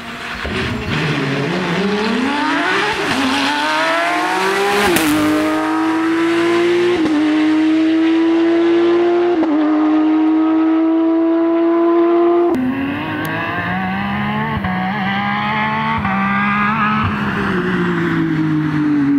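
Porsche 911 flat-six rally engine pulling hard: its pitch climbs steeply for the first few seconds, then holds high with brief dips at the gear changes. About two-thirds of the way in it drops sharply and then climbs again.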